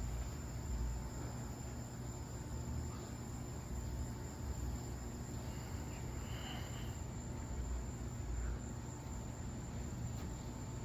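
Steady low background hum with a continuous thin, high-pitched whine; no distinct event stands out.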